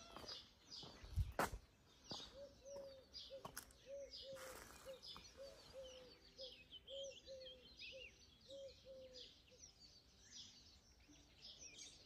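Several birds singing outdoors, with high chirps and twitters throughout and a lower, arching call repeated about three times a second from about two seconds in until about nine seconds. A low thump about a second in.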